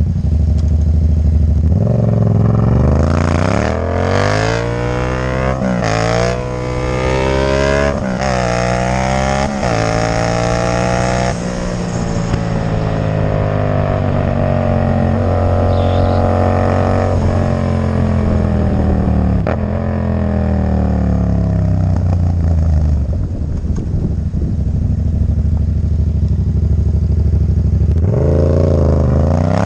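Yamaha MT-07's parallel-twin engine through a Black Widow exhaust with no dB killer, accelerating hard through several gears, its pitch climbing and dropping back at each shift. It then holds a high steady note before falling away to a low rumble, and revs up again near the end.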